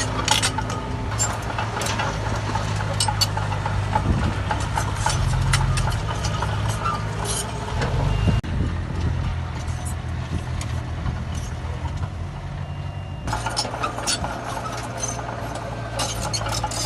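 Heavy diesel earthmoving machinery running steadily, with frequent sharp clanks and knocks over the engine sound. The sound changes abruptly about eight seconds in and again about thirteen seconds in.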